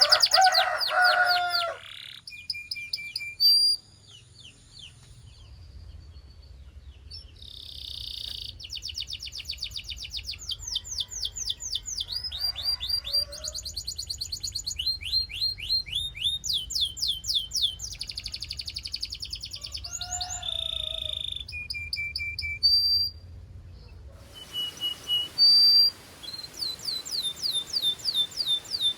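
Domestic canary song: phrases of fast trills, runs of quickly repeated whistled notes, with short pauses between phrases.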